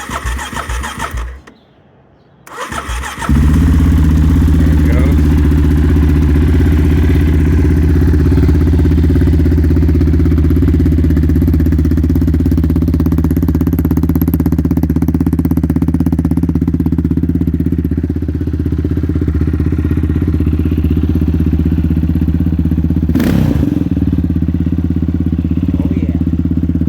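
2008 Yamaha Raptor 700 SE's single-cylinder engine through an aftermarket dual Monster exhaust: the electric starter cranks in two short tries, the engine catches about three seconds in, and it then idles steadily and loudly.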